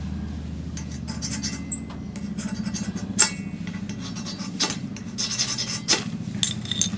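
Scraping and rubbing of metal, with several sharp clicks, over a low steady hum.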